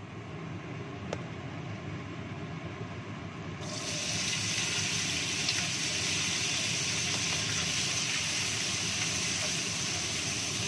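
A kitchen range-hood extractor fan running with a steady hum. About three and a half seconds in, sliced shallots, garlic and chilli go into hot oil in a wok and start sizzling, a steady hiss that is the loudest sound from then on.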